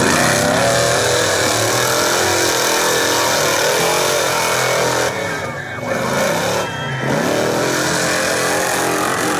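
Off-road rock-crawling truck engine revving hard, its pitch rising and falling under load, dropping off about five seconds in and then revving back up.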